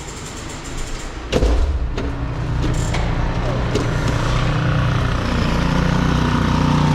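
A sharp knock about a second in, then a steady low motor-vehicle rumble that builds and holds.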